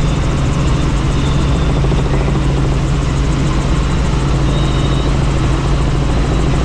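Helicopter in flight: steady, loud rotor and engine noise with a constant low hum.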